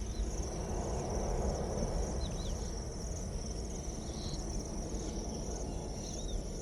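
Crickets chirping steadily, over a low rumbling noise, with a few short high chirps scattered through.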